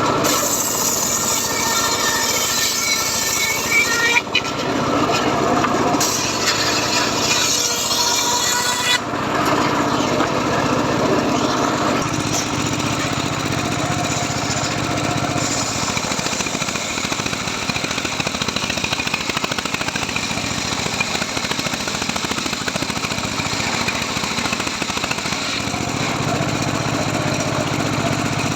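Engine-driven homemade circular sawmill cutting teak. The blade whines through the wood for the first four seconds and again from about six to nine seconds in. After that the engine runs steadily with the blade spinning free.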